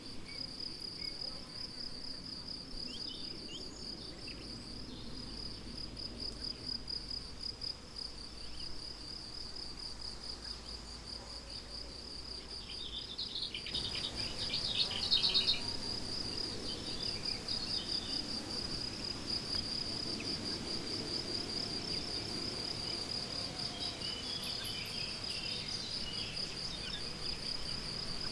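Crickets chirping steadily in a fast, even pulsing trill, with birds calling here and there, a burst of calls about halfway through and more near the end.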